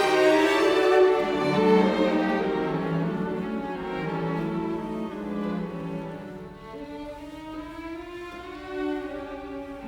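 Background music: slow bowed strings, violin and cello, holding long notes that grow quieter over the course of the passage.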